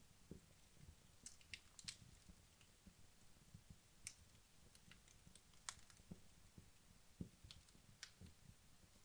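Wood logs burning in a fireplace, crackling faintly: irregular sharp ticks and pops a few seconds apart, with soft low thuds between.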